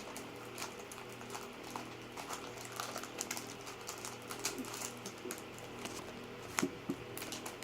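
A trading-card pack being handled and worked open: faint scattered crinkles and light ticks, with two sharper clicks near the end.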